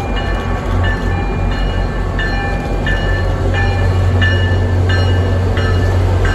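An MBTA commuter rail diesel locomotive hauling coaches approaches and passes close by, its engine rumbling low and growing a little louder. Over it a bell rings steadily, about one and a half strokes a second.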